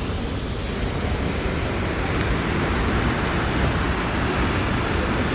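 Steady rush of falling water from Snoqualmie Falls, a large waterfall, heard as an even, unbroken noise.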